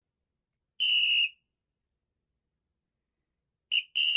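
Coach's sports whistle blown in sharp blasts: one short blast about a second in, then a quick chirp and a longer blast near the end.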